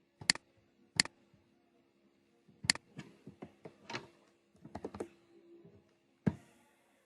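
Computer keyboard keys and clicks being pressed at an irregular, unhurried pace, about a dozen sharp taps in all, over a faint steady hum.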